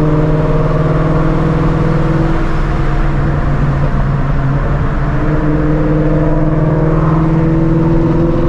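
Procharged Shelby GT350's 5.2-litre flat-plane-crank V8 running at low revs in slow traffic, a steady low drone. The revs ease off in the middle and climb gently over the last few seconds.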